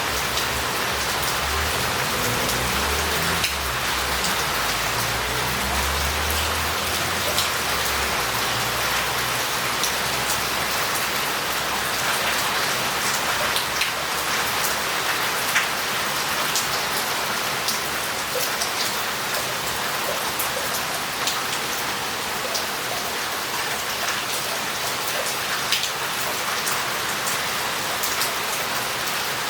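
Heavy rain falling on a city street's roof tiles and paving: a steady hiss dotted with many sharp drop impacts. A low rumble runs under it for the first third or so, then fades.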